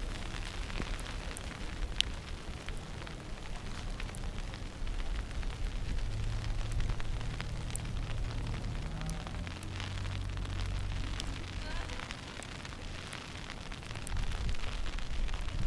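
Outdoor street ambience during a snow walk: a steady crackling noise with scattered sharp clicks, and a low rumble that swells about six seconds in and fades near twelve seconds.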